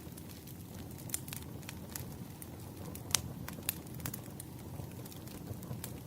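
Firewood burning: irregular sharp crackles and pops over a low steady rumble of the fire, the loudest pop about three seconds in.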